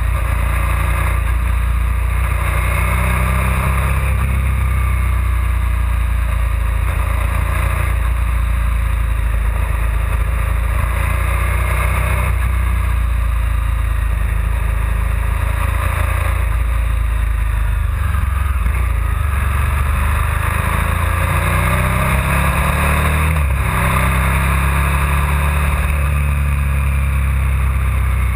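KTM 990 SMR supermoto's V-twin engine running under way. Its revs rise and fall through the bends over a steady, heavy low rumble.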